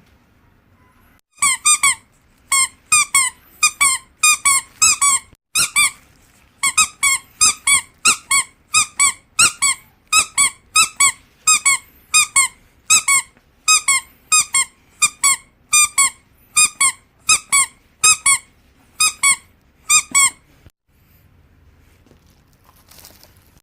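Rubber squeaky dog toy squeezed over and over in quick pairs and triplets of short, high squeaks, stopping about three seconds before the end.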